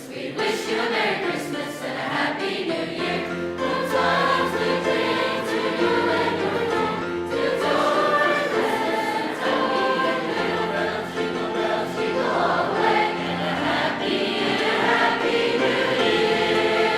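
A mixed high school choir singing a Christmas song, many voices holding sustained chords over a steady low accompaniment.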